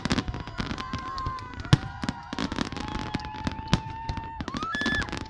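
Fireworks display: a dense run of bangs and crackles, the sharpest bang just under two seconds in. Long steady whistling tones are held over them, with a short rising whistle near the end.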